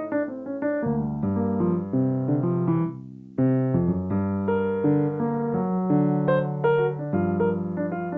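Solo piano playing a slow accompaniment of chords and melody; the sound dies away briefly about three seconds in, then the playing picks up again.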